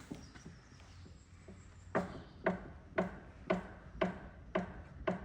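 A faint low hum, then, from about two seconds in, evenly spaced sharp knocks at about two a second.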